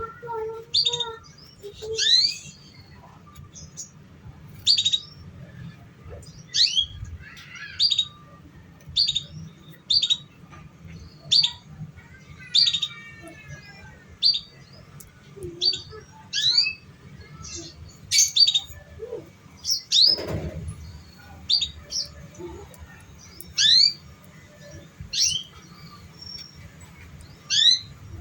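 Canary chirping: short, sharply rising call notes repeated about once a second, over a low steady hum.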